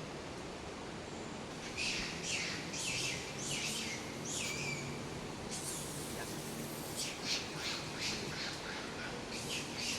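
A bird calling in two runs of short calls, about two a second, over a steady hiss.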